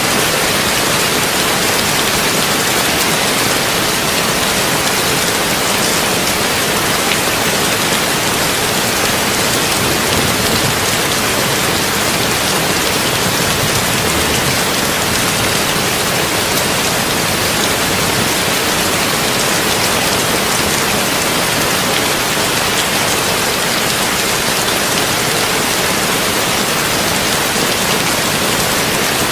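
Heavy rain falling on a tin roof: a loud, steady, even hiss with no thunder and no breaks.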